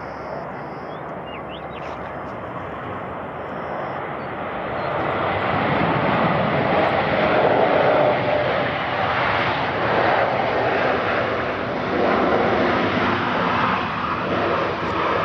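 Airliner engine noise growing louder from about four seconds in as the aircraft passes close, then holding at a loud, steady rush.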